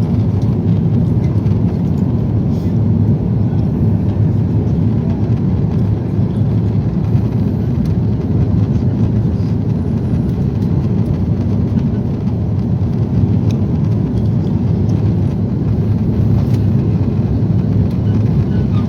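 Steady cabin noise of an Airbus A340 airliner in flight, the four jet engines and airflow making an even low rumble.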